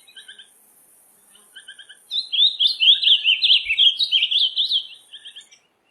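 A songbird singing: soft, quick little groups of high twittering notes, then from about two seconds in a loud, fast run of rapidly rising and falling notes lasting about three seconds, before soft twitters return near the end.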